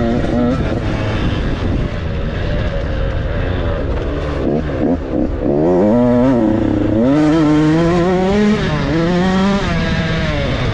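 A KTM 112 Supermini two-stroke dirt bike engine revving hard as it is ridden. Its pitch climbs and drops again several times as the throttle opens and closes and the gears change.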